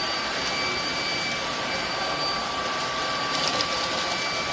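Fabuletta cordless brushless stick vacuum running steadily, a whooshing hiss of airflow with a steady high motor whine.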